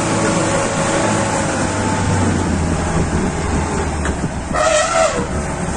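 Safari vehicle engine running with a steady low drone. About four and a half seconds in comes a loud, brief, shrill call lasting about half a second.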